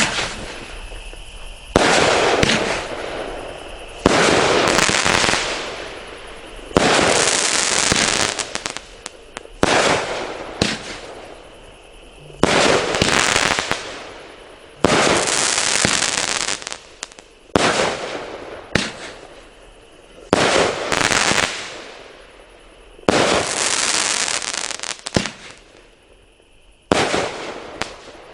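A 13-shot 200 g aerial firework cake firing shot after shot, about one every two and a half to three seconds, each a sharp bang followed by a second or two of hissing crackle that fades before the next.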